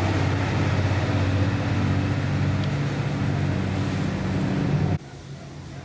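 iRobot Roomba 577 running with the noisy dustbin fault: its vacuum fan motor in the bin gives a loud steady hum and whir. It cuts off abruptly about five seconds in.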